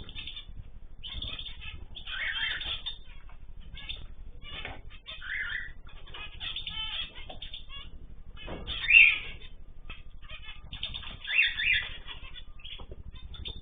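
Many small cage birds chirping and calling at once, a busy overlapping chatter with a few louder calls about nine and eleven seconds in.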